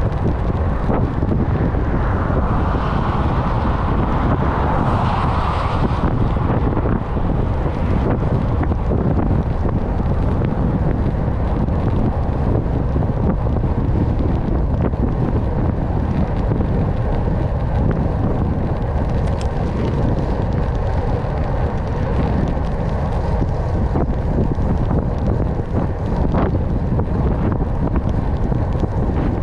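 Wind buffeting the microphone while cycling at speed: a steady low rumble, with a brief hiss that swells and fades a couple of seconds in.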